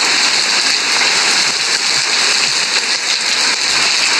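Heavy hurricane rain falling: a loud, steady hiss.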